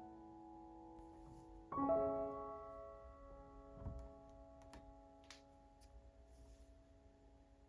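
Soft piano music: a chord is struck about two seconds in and left to ring and slowly fade. A few faint clicks and taps sound behind it.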